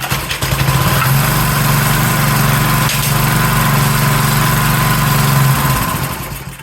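Briggs & Stratton single-cylinder edger engine starting up suddenly, running steadily for about five seconds, then faltering and dying out near the end. The owner suspects the carburetor is behind this start-and-die.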